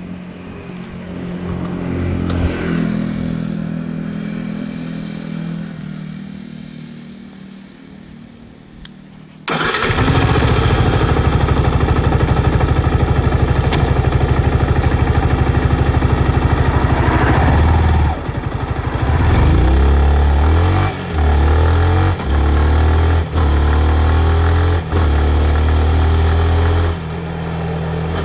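Yamaha MT-15's 155 cc single-cylinder engine, quieter at first, then much louder about nine seconds in. It holds a steady loud note, then climbs in a series of rising revs, each cut off by a short dip: shifting up through the gears while accelerating.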